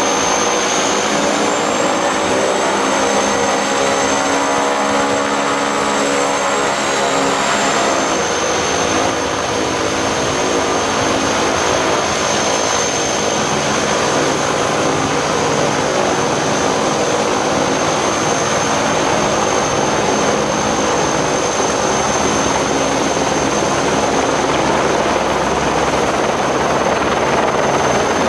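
Turbine helicopter engine and rotor running loud and steady just after starting up. A high turbine whine rises in pitch over the first several seconds, then holds.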